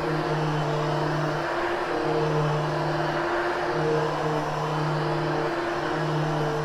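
Hoover Hush Tone vacuum cleaner running steadily during carpet grooming, its motor hum dipping and returning about every two seconds.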